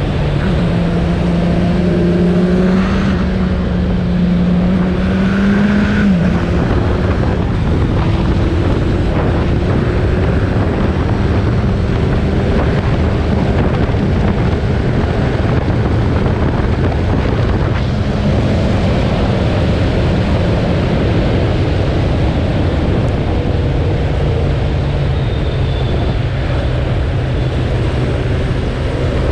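Suzuki Bandit 1200's inline-four engine running on the move, with wind noise. Its pitch rises over the first few seconds, drops sharply about six seconds in, then holds fairly steady.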